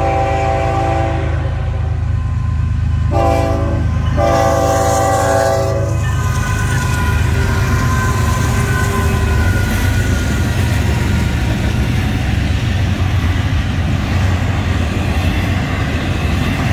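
Diesel freight locomotive horn blowing for a grade crossing: a long blast, a short one and another long one ending about six seconds in. Then the Florida East Coast Railway freight train passes close by, the LNG-burning locomotive followed by double-stack intermodal cars, rumbling steadily along the rails.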